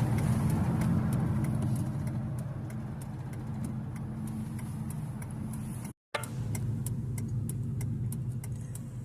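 Vehicle engine running steadily while driving, with a fast even ticking over it, about three ticks a second. The sound cuts out for a moment about six seconds in.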